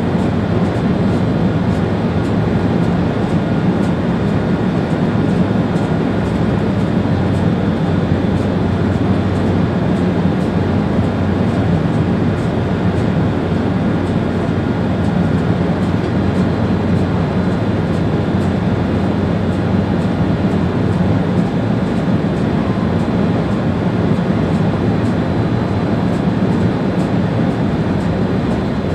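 Steady running noise heard in the driver's cab of an ÖBB Railjet train travelling along the line: a dense, even rumble with a faint, steady high tone above it.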